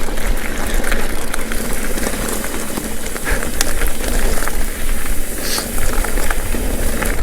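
Mountain bike rolling along a dirt trail: a steady rush of tyre and wind noise on the microphone, with frequent small clicks and rattles from the bike over the ground.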